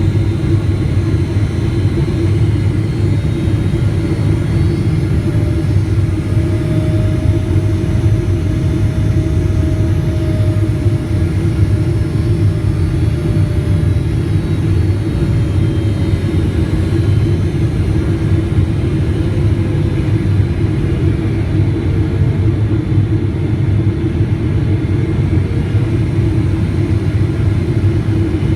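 Steady low rumble of a Boeing 777-300ER heard from inside the cabin: engine noise and airflow at an even level, with faint engine tones slowly drifting in pitch.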